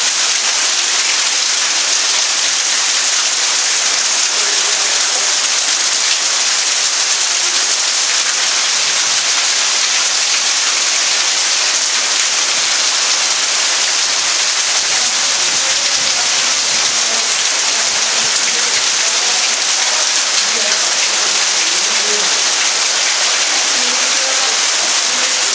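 Heavy downpour: a steady, dense hiss of rain pouring down hard onto roofs, cars and the ground.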